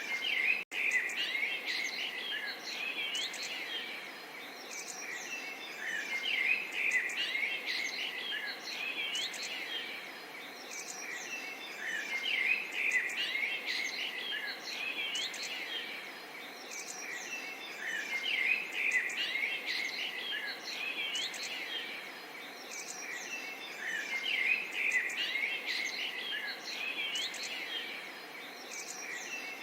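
A chorus of small songbirds chirping and twittering continuously, swelling and easing about every six seconds, over a faint steady murmur of running water. A brief gap cuts the sound for an instant less than a second in.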